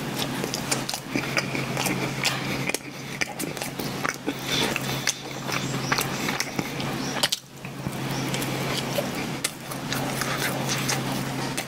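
Close-miked biting and chewing of a soft coffee bun: wet mouth smacks and clicks, with a steady low hum underneath.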